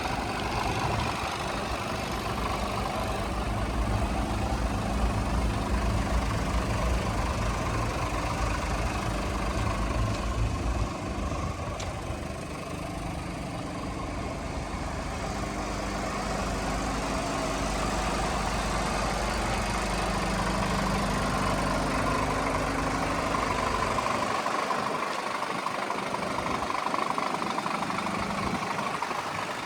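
Scania truck's diesel engine running steadily at idle, with a deep low rumble that drops away near the end.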